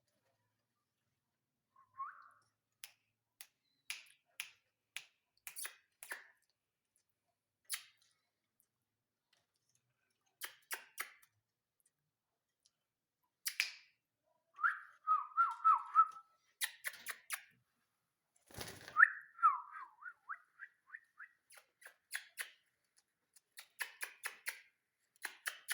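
Indian ringneck parrot making scattered short clicks and chirps, with a few brief whistles, one of them a quick falling run of short notes.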